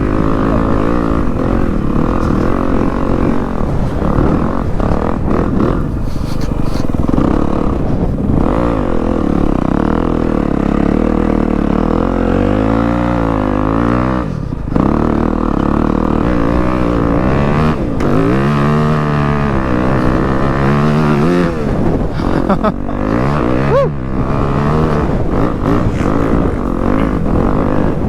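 Dirt bike engine being ridden hard, its pitch rising and falling again and again with the throttle, with a brief let-off about halfway through.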